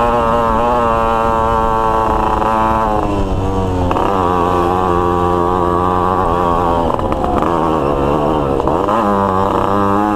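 Two-stroke motorcycle engine running under varying throttle: its pitch holds steady, falls about three seconds in, dips and wavers again between about seven and nine seconds, then climbs back up near the end.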